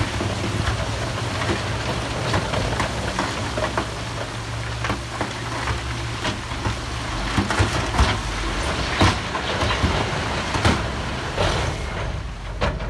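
Heavy diesel machinery running steadily, with many irregular sharp knocks and clatters over the engine hum, typical of earthmoving equipment pushing or dumping rock and soil.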